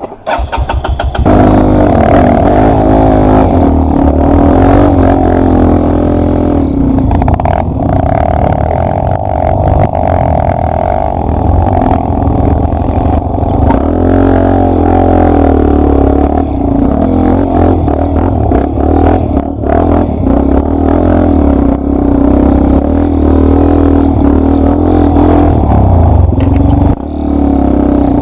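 Yamaha Lander 250's single-cylinder four-stroke engine running while the dirt bike is ridden on a trail, the revs rising and falling with the throttle, with knocks from rough ground.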